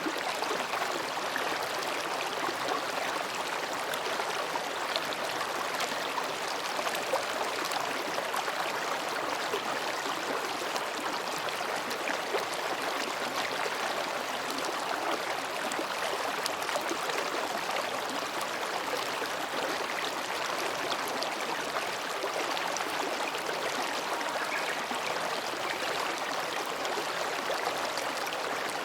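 Mountain stream babbling over and between rocks: a steady, even rush of flowing water.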